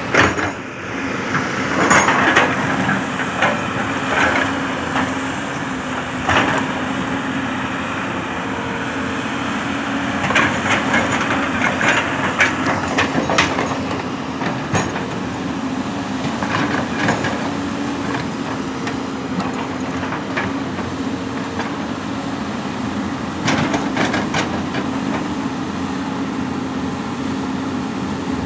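Diesel engine of a heavy earthmoving machine running steadily, with scattered knocks and clanks throughout from the machine working earth and stone.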